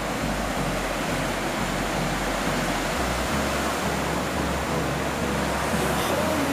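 Sea waves washing onto the beach, a steady rushing noise.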